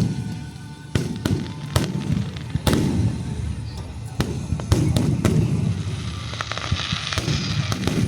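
Fireworks exploding overhead: a run of sharp bangs, about one every half second to second, each trailing off in a low rumbling echo, with crackling in the last couple of seconds.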